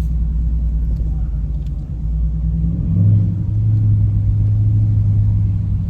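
Car engine running with a low rumble; about three seconds in its note rises and gets louder, then holds steady at the higher pitch.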